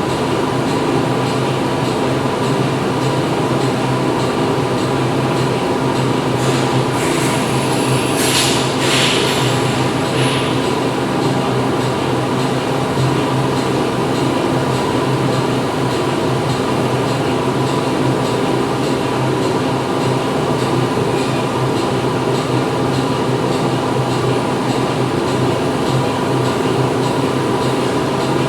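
Steady din of factory machinery running, a dense hum with several fixed tones over a rushing noise. About seven seconds in, a brief high hiss like escaping air rises for a couple of seconds and stops.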